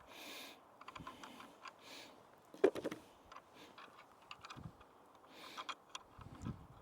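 Faint small metal clicks and taps of nuts being handled and started by hand onto bolts, with one sharper click about two and a half seconds in.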